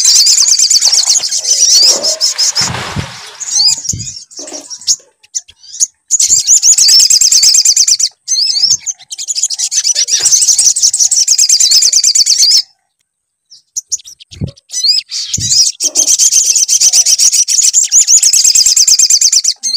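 Sogon (little spiderhunter) song played as a lure: long phrases of rapid, high-pitched chirps, each several seconds long, separated by short pauses. There are a few dull low thumps, one about three seconds in and two more near the middle.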